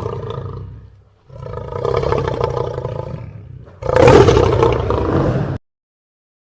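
Lion roaring in a series of long calls: one fading out, a second, then a louder third that cuts off abruptly, leaving silence.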